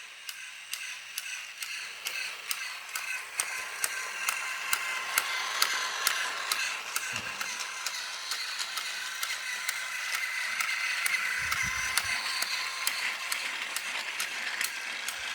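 Battery-powered Trackmaster toy engine running along its plastic track: a steady whir from its small geared motor with rapid, regular clicking.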